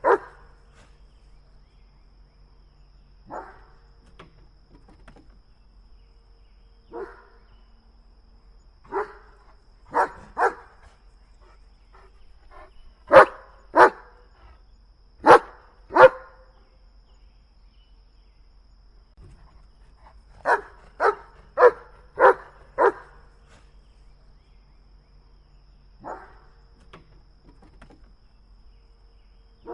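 A dog barking: single barks and pairs spaced a few seconds apart, then a quick run of five barks.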